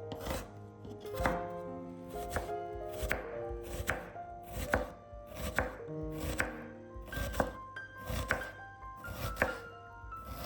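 Knife chopping on a cutting board in steady strokes, about one a second, over soft background music.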